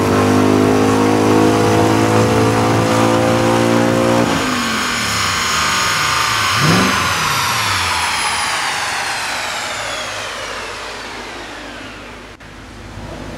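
Audi B6 S4's 4.2-litre V8, breathing through a full aftermarket exhaust with downpipes and cat-back, at full throttle on a dyno with its pitch climbing. About four seconds in the throttle closes, and the engine and rollers wind down with a falling whine that fades away.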